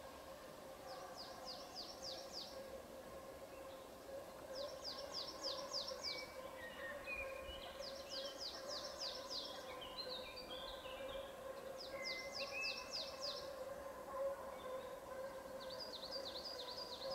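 A songbird repeating a short high song about every four seconds, each a quick run of five to seven downward-sweeping notes lasting about a second, with other small birds chirping in between. A steady faint hum runs underneath.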